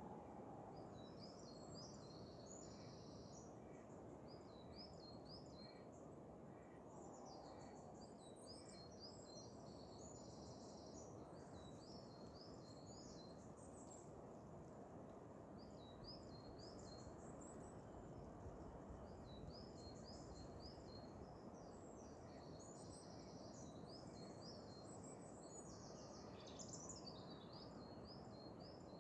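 Small birds chirping in short, quickly repeated high phrases, on and off, over a faint steady background hiss.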